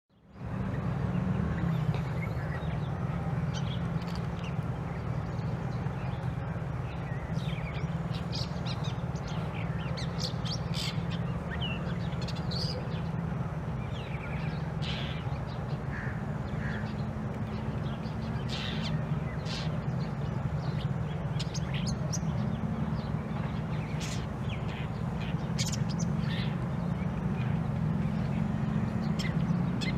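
Long-tailed shrike (pentet) giving many short, harsh calls at irregular intervals over a steady low rumble.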